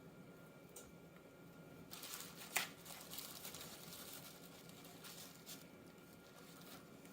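Faint crinkling and rustling of food being handled by hand, with one sharp click about two and a half seconds in.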